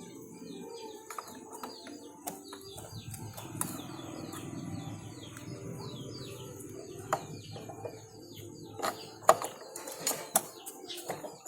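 Small birds chirping rapidly and continuously, with scattered metallic clicks and knocks from hand work on a motorcycle engine, a few sharper knocks near the end.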